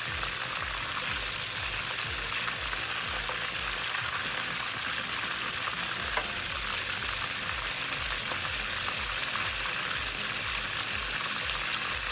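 Chicken wings deep-frying in about an inch of cooking oil in a fry pan: a steady, dense sizzle with fine crackling pops.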